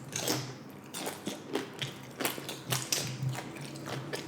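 Close-up chewing of tortilla-chip nachos: crisp, irregular crunches several times a second.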